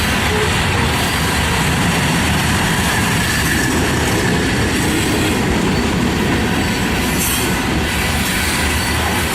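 Freight train cars rolling past on the track: a loud, steady rush and rumble of wheels on rail, with a faint wheel squeal.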